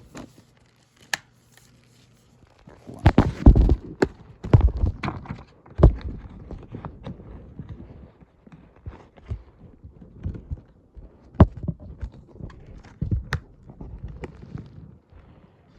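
Plastic Blu-ray disc case being handled: a run of irregular clicks, knocks and rattles, loudest and densest a few seconds in.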